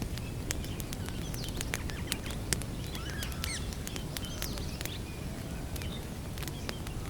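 Wood campfire crackling, with frequent sharp pops over a steady low rumble. Small birds chirp in the background.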